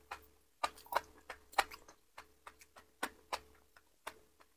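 Close-miked chewing of enoki mushrooms, with short wet clicks and crunches at an uneven pace.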